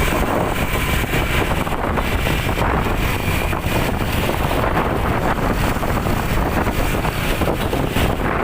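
Steady vehicle rumble with wind buffeting the microphone.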